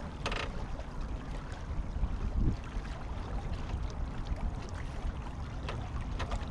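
Water rushing and gurgling along the hull of a small sailboat under way, over a low rumble, with a brief squeak shortly after the start and a few light clicks near the end.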